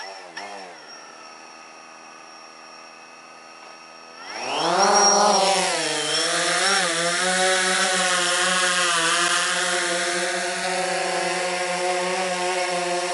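Quadcopter camera drone's motors idling with a quiet buzz, then about four seconds in spinning up with a rising whine as it lifts off. It then hovers and climbs with a loud steady buzz that wavers slightly in pitch.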